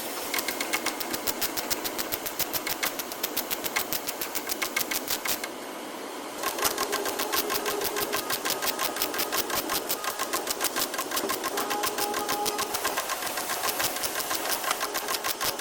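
A power tool working in rapid, even strokes, about ten a second, with a short pause about five and a half seconds in.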